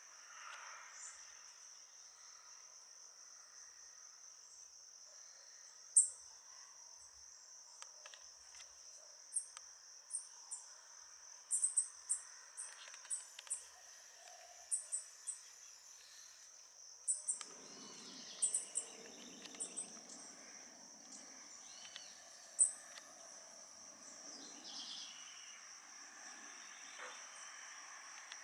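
An insect's steady high-pitched trill runs throughout. Over it come scattered short, sharp high chips from small birds, most of them in the middle of the stretch.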